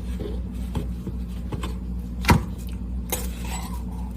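Kitchen utensils and measuring spoons clinking and clicking lightly while baking powder is measured out, with one sharper click a little past two seconds in, over a low steady hum.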